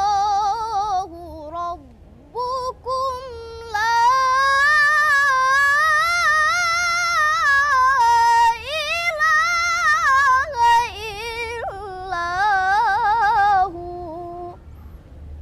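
An 11-year-old girl reciting the Quran in the melodic tilawah style, one high voice in long, ornamented held phrases with short breaks for breath. The recitation stops about a second before the end.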